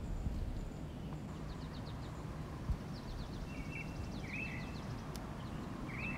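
Outdoor background noise: a steady low rumble with a small bird's quick chirping trills several times, and a single dull thump about two and a half seconds in.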